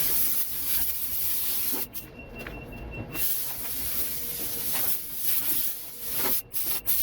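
Compressed-air blow gun hissing as it blows sanding dust off the truck body before repriming. The hiss eases off for about a second two seconds in and cuts out twice briefly near the end.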